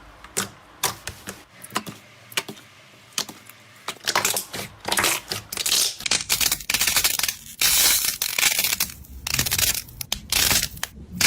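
Slime being squeezed and pressed by hand: scattered sharp clicks and pops for the first few seconds, then dense, irregular crackling and crunching from about four seconds in.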